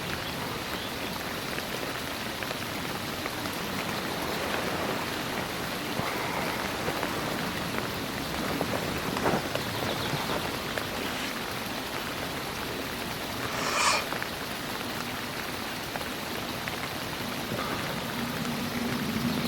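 Steady rain falling, with one short, brighter sound about fourteen seconds in.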